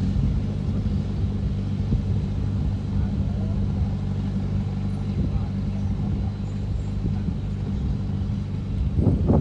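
Heavy diesel engine of earthmoving machinery running steadily at a low pitch, with a louder surge starting near the end.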